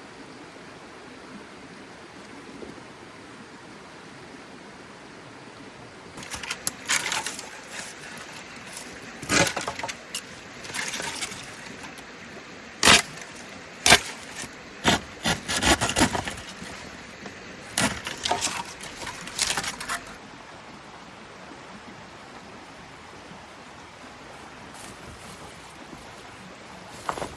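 Steady hiss of rain, with a cluster of sharp knocks and clatters from about six to twenty seconds in, the two loudest near the middle.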